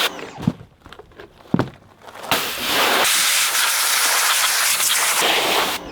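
Pressure washer spraying water in a steady hiss that starts about two seconds in and cuts off suddenly just before the end, with two short knocks in the quieter stretch before it.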